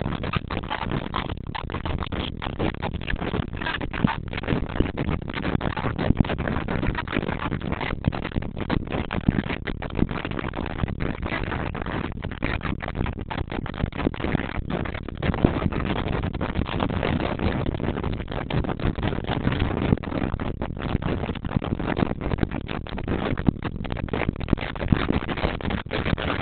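Steady rushing road and wind noise inside a moving car, heard from the cabin, with irregular brief dips.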